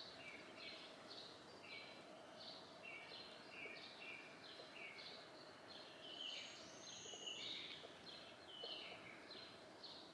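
A songbird singing faintly, repeating a short phrase of a higher note stepping down to a lower one about twice a second.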